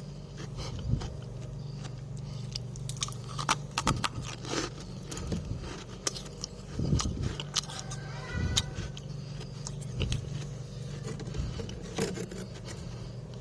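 Irregular crisp crunches and scrapes of freezer frost being eaten, over a steady low hum.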